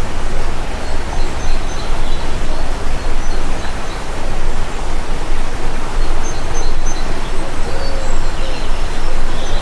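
Stream water rushing steadily and loudly, with faint, short high bird chirps over it, more of them from about six seconds in.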